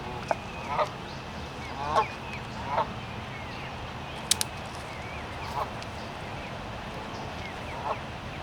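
Geese honking, about six separate honks at irregular intervals, with a sharp click about four seconds in.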